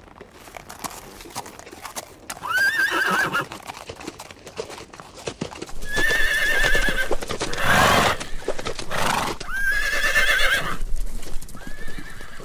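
Horse whinnying: four quavering high calls, the last cut short at the end, with two short noisy blasts between the second and third.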